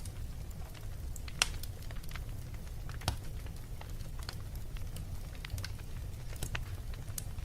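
Fireplace fire crackling, with irregular sharp pops, the loudest about a second and a half in and about three seconds in, over a low steady rumble.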